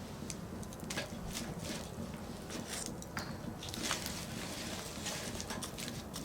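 Firewood burning in a campfire, crackling with scattered sharp pops and short bursts of hissing.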